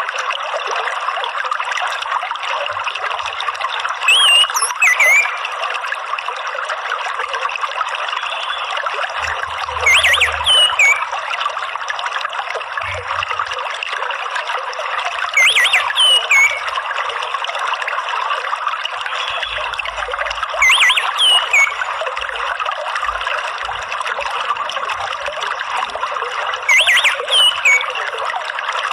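Steady trickling, running water with a short burst of high, quick sweeping bird chirps about every five and a half seconds, five times, as in a looped orange-headed thrush therapy recording.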